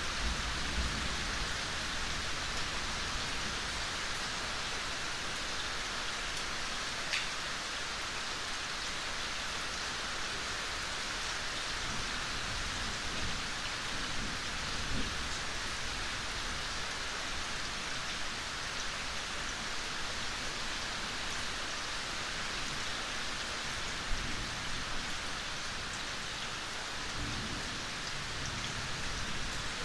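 Steady gentle rain falling in a forest, an even hiss with a few louder drops standing out, one about seven seconds in.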